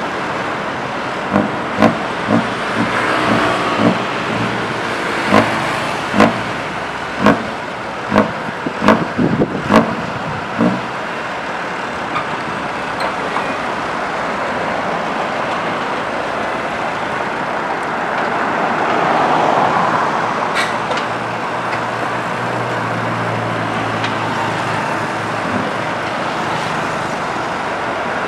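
Komatsu PC120 hydraulic excavator running while loading onto a trailer. About a dozen loud metal clanks come in the first ten seconds or so, then the diesel engine runs steadily with a low hum.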